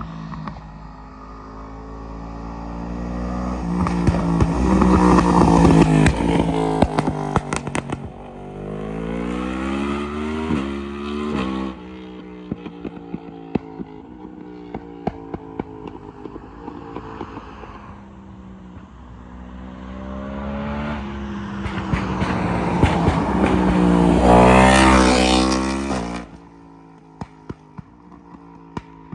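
Yamaha MT-10's crossplane inline-four through an Akrapovic exhaust, accelerating hard with the pitch stepping down at each gear change, then building to high revs a second time. Sharp exhaust pops and crackles come at high revs and on the overrun after the throttle closes near the end.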